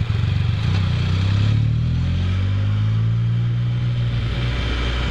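Can-Am Spyder F3's Rotax 1330 inline-three engine under way. It rises in pitch as it accelerates over the first couple of seconds, then holds a steady pitch, with a rush of wind noise underneath.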